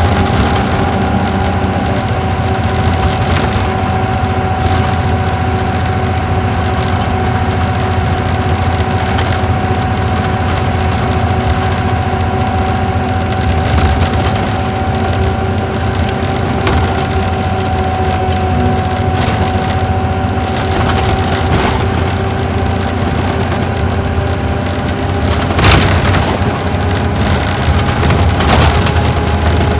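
Isuzu Gala coach with its V-type engine running at a steady speed, heard from inside the cabin: an even low drone of engine and road with a steady whine over it. A sharp knock near the end, with a smaller one a couple of seconds later, as the bus goes over bumps.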